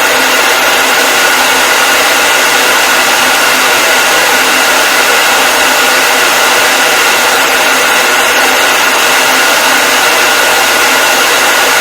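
Hair dryer blowing continuously: a steady, loud rushing hiss with a faint high whine from its fan motor.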